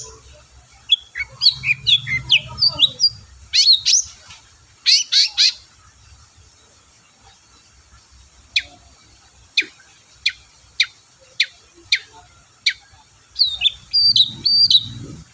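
Long-tailed shrike (cendet) singing. It opens with a run of quick varied chirps and twitters, then gives a few loud downward-sweeping notes, then a string of about eight short, sharp falling calls at roughly half-second to one-second gaps, and ends with more twittering.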